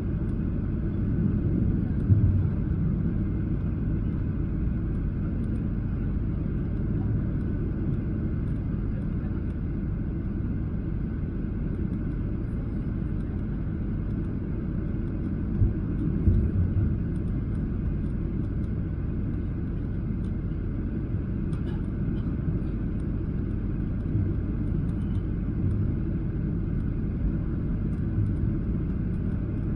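Cabin noise inside a Boeing 737-800 airliner: a steady low rumble from the engines and airflow, with a few brief knocks.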